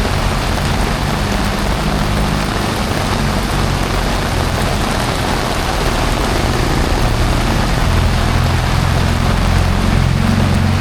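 Heavy rain pouring steadily, with a low hum of road-traffic engines underneath that grows louder near the end.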